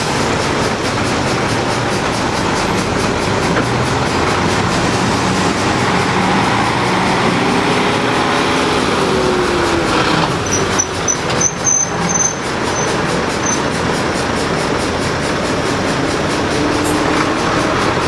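Heavy old truck engines running on the road, their pitch rising and falling, over a steady wash of road noise.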